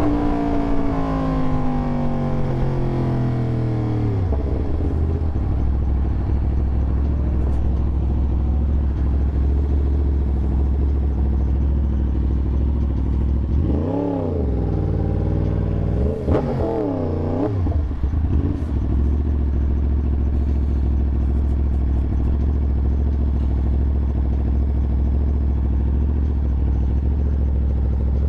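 Yamaha R1 sport bike's inline-four engine, its revs dropping away over the first few seconds, then running steadily at low revs. Around the middle the throttle is blipped twice, each a quick rise and fall in revs.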